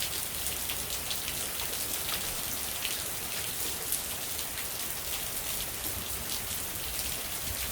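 Heavy rain falling steadily, a continuous hiss with many sharp individual drop hits scattered through it.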